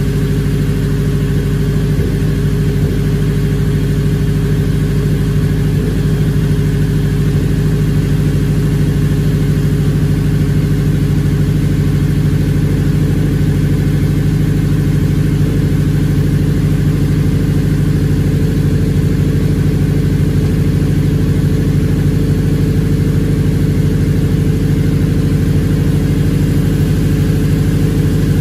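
Turbocharged Honda K20 four-cylinder engine in an EK Civic idling steadily on its first start after the build.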